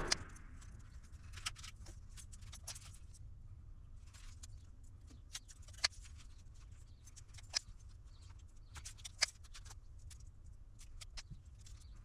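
Scattered light clicks and clinks of small hard objects being handled on a workbench, with sharper clicks about 6, 7.5 and 9 seconds in, over a steady low hum.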